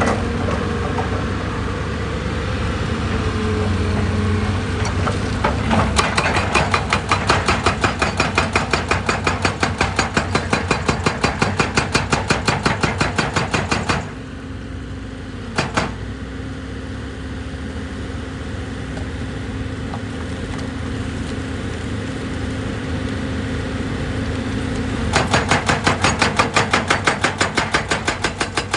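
Heavy diesel machinery running steadily, with two long spells of rapid, evenly repeated hammering, several blows a second. The first spell starts about six seconds in and stops suddenly near halfway; the second starts near the end. A single knock falls in the quieter stretch between them.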